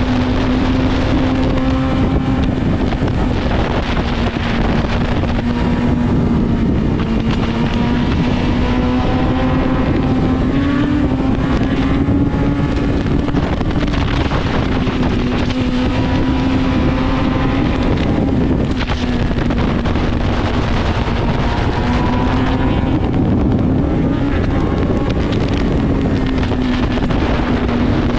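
Inline-four superbike engine running under way at fairly steady revs, its note rising and falling a little with the throttle, with wind noise on the microphone.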